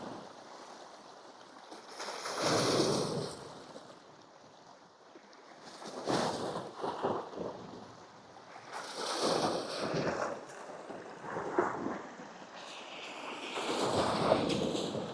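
Sea waves washing against shore rocks, surging and falling back about five times, with some wind on the microphone.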